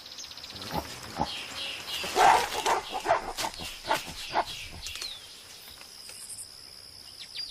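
Mountain gorillas squabbling over rank: a run of short, harsh grunts and screams, the loudest about two seconds in.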